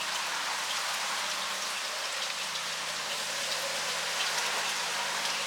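A brush raking through a dog's matted hair, making a steady, scratchy crackle of many fine ticks.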